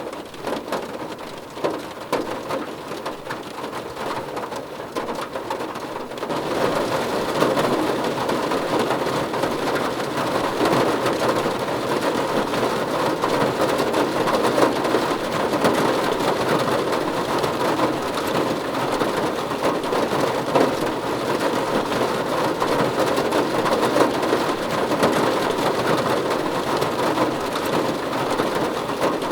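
Rain falling on a car roof, a dense steady patter of drops that gets heavier and louder about six seconds in.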